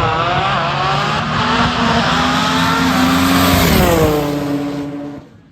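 High-powered drag race car engine at full throttle, its pitch climbing in steps as it accelerates, then dropping and fading quickly away near the end.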